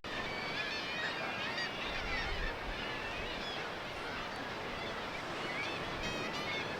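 A seabird colony on the cliffs, with many birds calling over one another in a steady stream of short, wavering calls.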